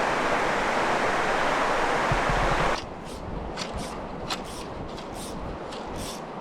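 Mountain river rushing steadily, cutting off abruptly about three seconds in; after that comes a quieter background with a string of short, crisp high ticks or scuffs.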